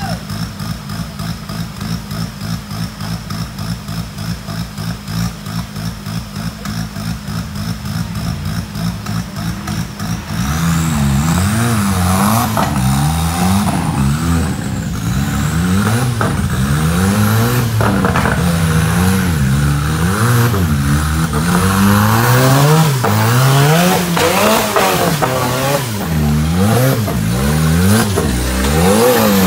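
Modified off-road 4x4's engine idling with an even, pulsing beat, then about ten seconds in it revs hard, rising and falling again and again as the vehicle climbs a muddy creek bed under load.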